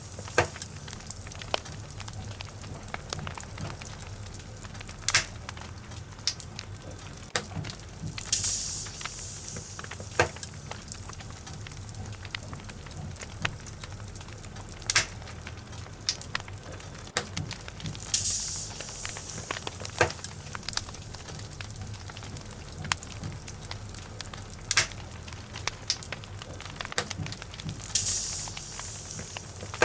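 Wood logs burning in a fireplace: steady crackling over a low rumble of flames, with a louder sharp pop every few seconds and a short burst of hissing about every ten seconds.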